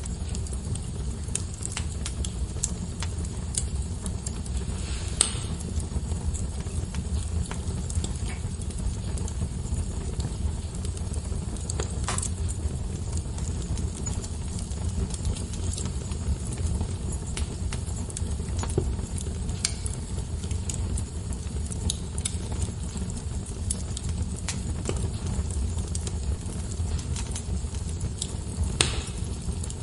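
Fire burning in a fireplace: a steady low rumble with scattered crackles throughout and a few louder pops, about five and twelve seconds in and again near the end.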